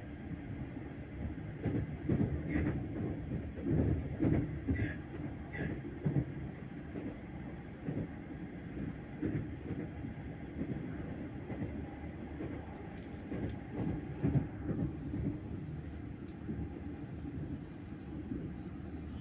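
Moving passenger train: a steady low rumble with an irregular clatter of wheels over the rails.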